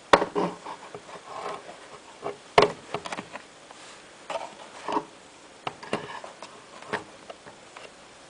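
Scattered clicks, knocks and light clatter of parts being handled, with sharp knocks just after the start and about two and a half seconds in, and smaller ones about every second after that.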